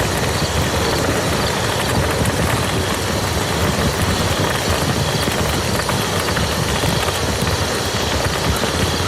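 Steady rain falling on a muddy field: a dense, even hiss of drops, with faint individual drop hits scattered through it.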